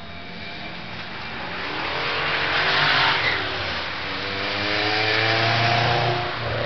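A car accelerating hard past. The engine grows louder and sweeps by about three seconds in, with a rush of tyre and air noise. Its pitch then climbs again as the revs rise, before falling off near the end.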